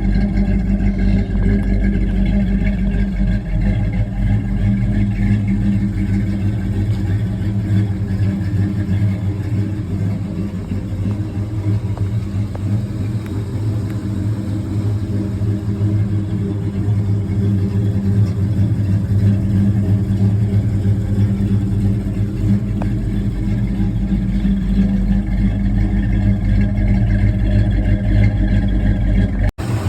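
Classic car's V8 engine running steadily at an even speed, with a strong low note.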